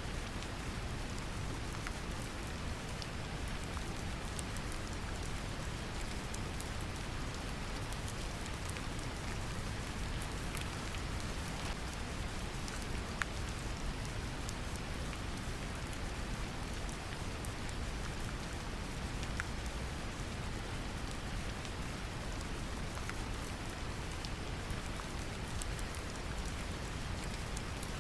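Steady brown noise mixed with rain: a deep, even rushing hiss with scattered drop ticks on top.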